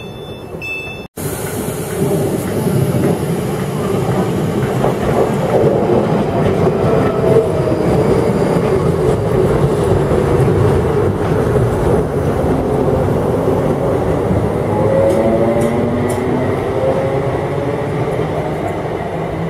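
ScotRail electric multiple unit passing along the platform: a loud, steady rumble of wheels on the rails with clickety-clack over the joints. Faint squealing tones rise and fall at about seven seconds and again near the end.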